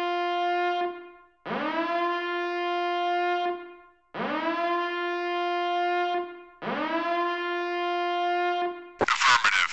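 A horn-like wind instrument blown in four long blasts, each sliding up into the same steady note and held about two seconds. Near the end a short, loud noisy burst.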